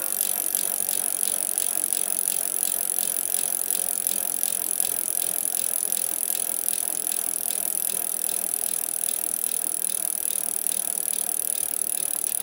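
Fast, even mechanical clicking like a ratchet, running steadily and cutting off abruptly at the end.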